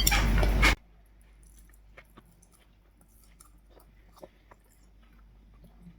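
Faint chewing and small mouth clicks of someone eating tofu. A loud burst of noise cuts off suddenly under a second in.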